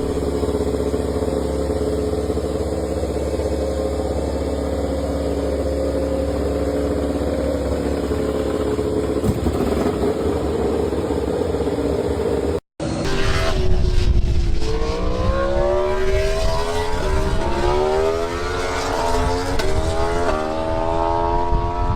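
Racing motorcycle engine held at steady revs, then, after a short break, accelerating hard with the pitch climbing and dropping back at each of several quick upshifts.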